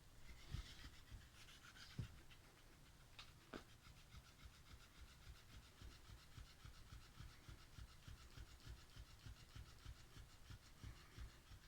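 Faint, quick rhythmic sounds from a cat, about two or three a second, with a few light knocks in the first few seconds.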